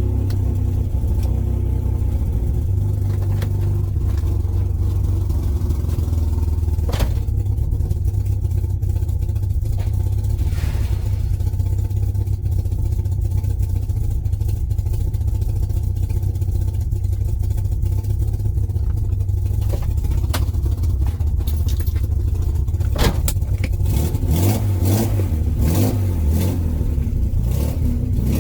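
BMW E36's swapped M50B25 straight-six, on a full aftermarket exhaust and an untuned ECU, running under way as the car is driven, with a steady low drone. Several sharp knocks or clicks cut in near the end.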